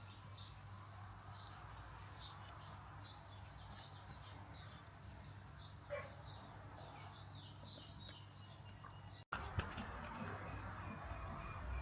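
Many small birds chirping in quick, short downward calls over a steady high-pitched insect drone. A sudden cut to silence comes about nine seconds in, and the chirping is fainter after it.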